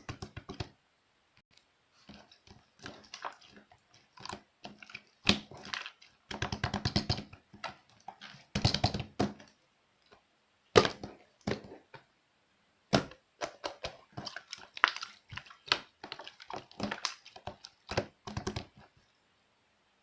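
Glitter slime being squished, poked and stretched by hand, giving bursts of sticky clicks, pops and crackles with short pauses between them; it stops about a second before the end.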